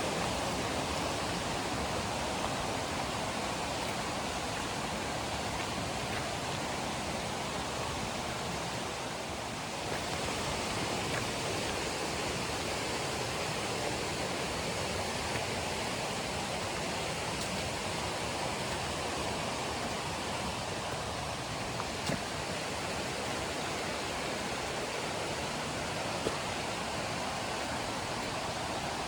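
River water rushing steadily over rocks, an even hiss of running water that dips slightly for a moment about a third of the way through.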